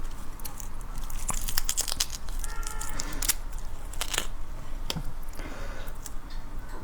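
Large red prawn's shell being cracked and peeled apart by hand, a run of irregular crackling, tearing clicks.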